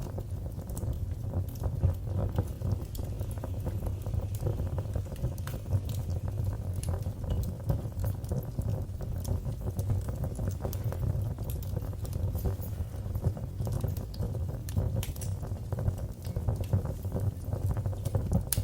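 Wood fire burning in a fireplace, with a steady low rumble of the flames and many small, irregular crackles and pops.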